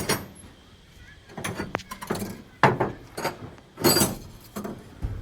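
Metal tools and parts being handled during repair work on a diesel injection pump: a string of irregular knocks and clinks, about six separate bursts, the loudest a little before and at about four seconds in.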